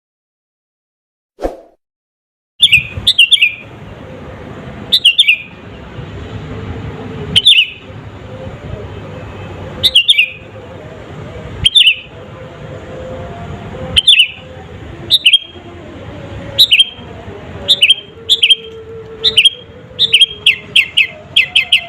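Sooty-headed bulbul (kutilang) calling: short, sharp notes repeated about every two seconds over a steady background hiss, starting about two and a half seconds in and quickening into a rapid run of notes near the end.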